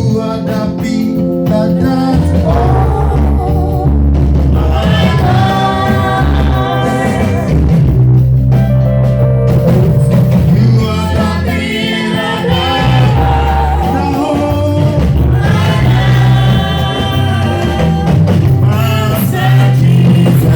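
Live gospel praise music: singing voices over a band with a steady bass.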